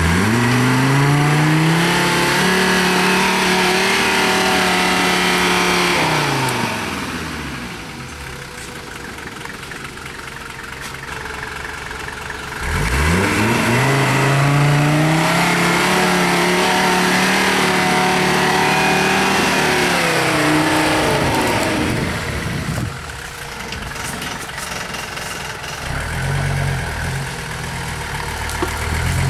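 Modified GAZ-69 off-roader's engine revving hard under load twice as it climbs a dirt bank. Each time the revs are held high for several seconds, then fall back to a low, slow running.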